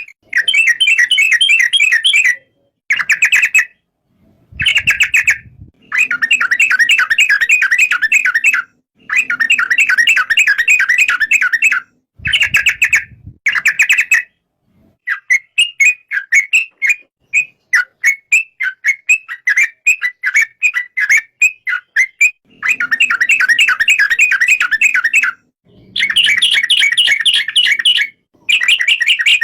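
Yellow-vented bulbul (trucuk) singing: repeated phrases of rapid chattering notes, each one to three seconds long with short silent gaps between them. About halfway through, the song turns to a looser run of separate short notes, then the fast phrases return.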